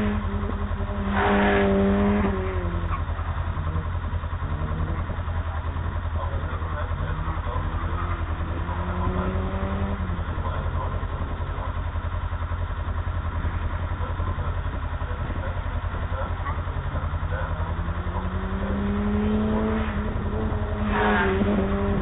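Ford Escort RS2000 engine idling with a steady low rumble, while other cars' engines rise and fall as they accelerate and brake. These passes are loudest about a second in and again near the end.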